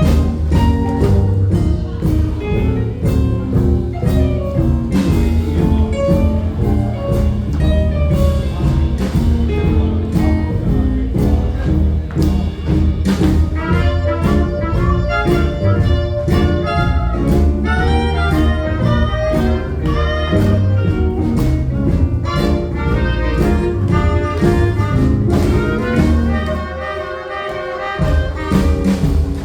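Live jazz band playing: horns over a walking low bass line and drums. Near the end the bass and drums drop out for a moment before the band comes back in.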